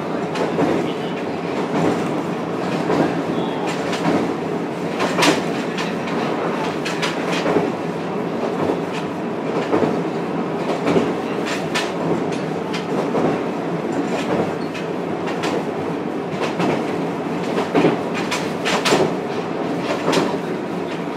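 Running noise heard inside a JR Kyushu 303 series electric train's motor car: a steady rumble with sharp wheel clicks over the track at irregular intervals.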